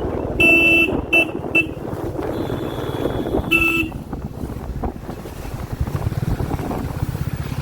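A vehicle horn honks four times: one longer blast, two quick taps, then one more blast about two seconds later. Underneath, a Royal Enfield Classic 350's single-cylinder engine runs steadily, mixed with wind noise.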